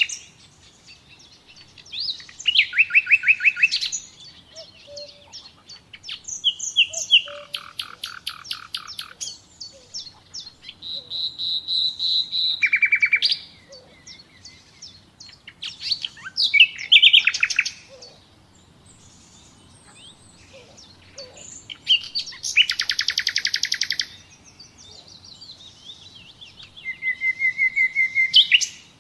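Nightingale singing: about six loud phrases of rapid repeated notes and whistles, each changing in pitch and pattern, with pauses of a few seconds between them.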